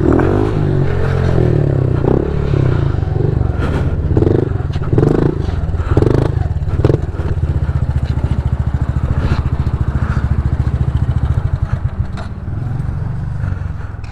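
A Honda CRF110 pit bike's small single-cylinder four-stroke engine runs while riding. In the second half it settles into an even, low pulsing chug, then eases off near the end.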